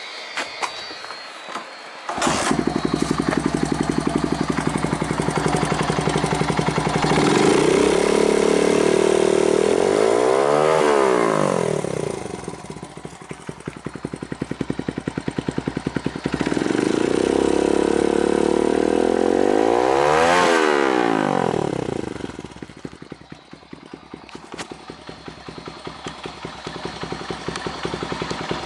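Honda Ape 100 (HC07) single-cylinder four-stroke engine starting about two seconds in and catching straight away into a steady idle. It is revved up and let fall back twice. It then settles into a lower, uneven idle near the end.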